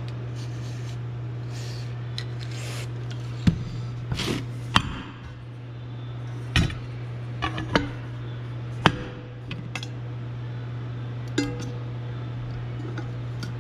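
Metal parts of a golf cart drive clutch being handled and set down, with about six sharp clinks and knocks, a few ringing briefly, over a steady low hum.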